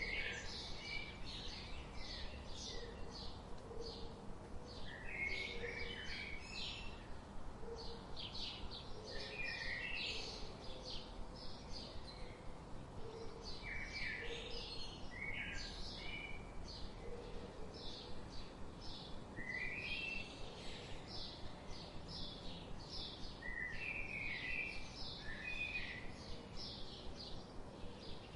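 Several birds chirping: a dense, continuous stream of short high chirps and trills. A faint low note repeats underneath, over a steady background hiss.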